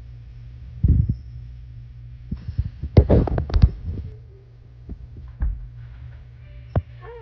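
Irregular thumps and knocks over a steady low hum, with a quick flurry of knocks about three seconds in.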